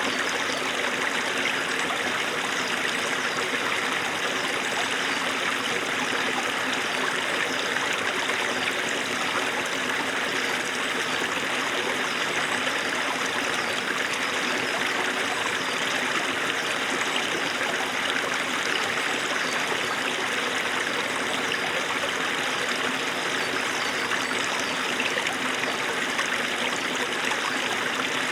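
Small snowmelt stream running over stones: a steady, even babble of trickling and splashing water.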